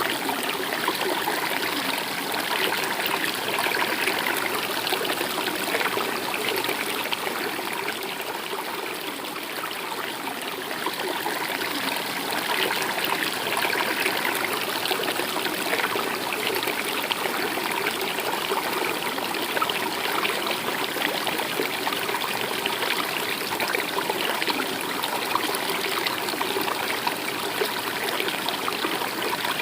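A stream of running water, flowing steadily with a continuous rushing sound.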